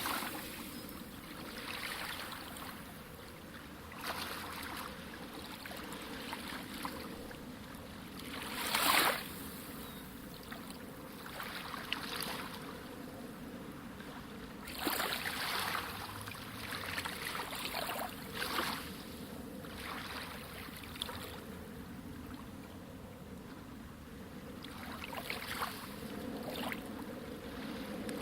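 Sea waves breaking and washing in, surges of surf that swell and fall back every few seconds, the strongest about nine seconds in.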